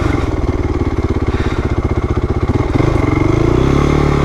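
Honda CRF450R's single-cylinder four-stroke engine running at low revs, each firing stroke audible, then revved up about three seconds in before the throttle is eased off again.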